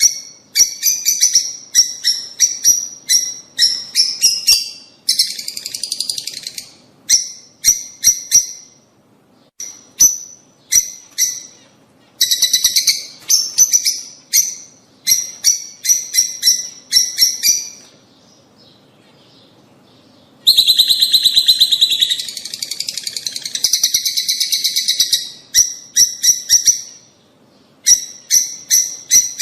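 Lovebirds calling: runs of sharp, high-pitched chirps in quick succession, broken by a short lull a little past halfway, then a dense stretch of chatter.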